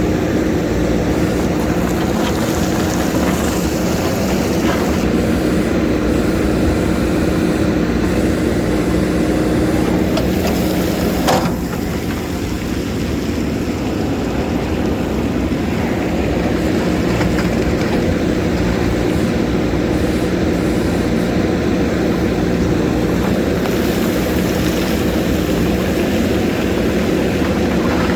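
JCB backhoe loader's diesel engine running steadily under work, with one sharp clank about 11 seconds in, typical of the bucket striking rock.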